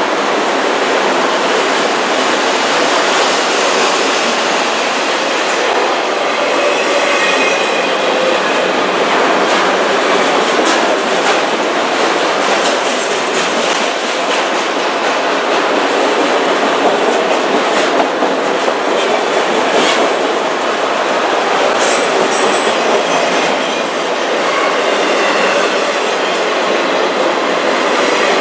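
CN autorack freight train rolling past: a steady rush of wheels on rail with clicks over the rail joints and a few brief high wheel squeals.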